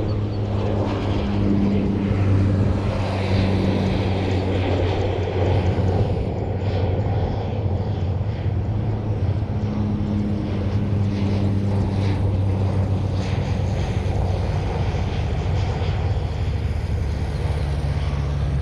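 Aircraft engine noise: a steady, loud drone with a low hum.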